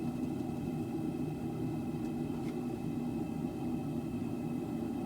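Propane forge burner running with a steady rumble.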